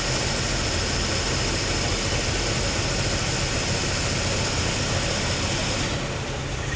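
Steady drone of a lorry's diesel engine and road noise, heard inside the cab while the truck is moving.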